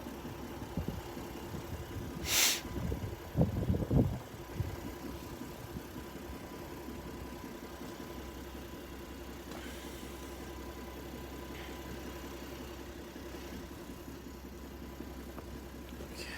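Truck engine idling steadily, with a short loud hiss about two seconds in and a few low knocks just after.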